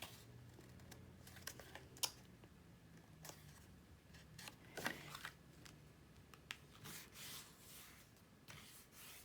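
Faint handling of cardstock: scattered light taps and brief rustles, the clearest about two seconds in and about five seconds in, over a faint low hum.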